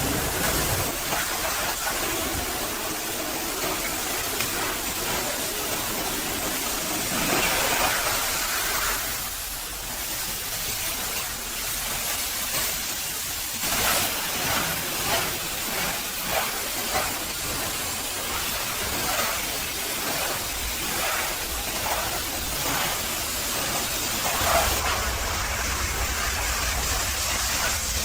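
High-pressure washer jet spraying water onto a truck: a steady hiss that rises and falls in places.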